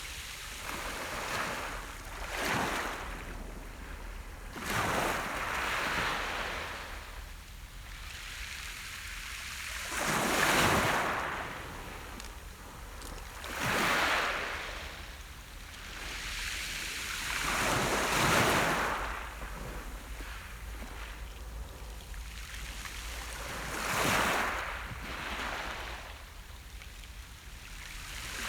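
Sea surf: waves breaking and washing up the beach, one rushing surge every few seconds, with a softer wash between them.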